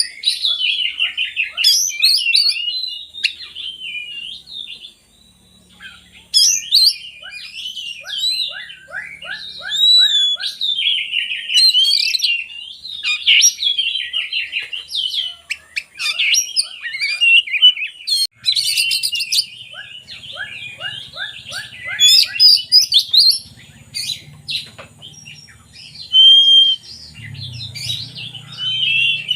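Oriental magpie-robin singing a long, varied song of whistled phrases and quick runs of repeated notes, pausing briefly now and then. A faint low hum comes in about two-thirds of the way through.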